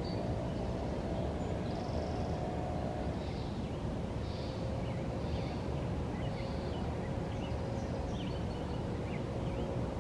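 Outdoor ambience: small birds giving short chirps and calls every second or so over a steady low rumble and a faint steady hum.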